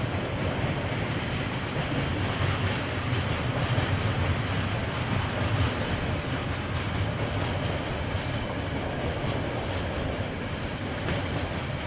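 KiwiRail train rolling past on the rails, a steady noise of wheels and wagons, with a brief high squeal about a second in.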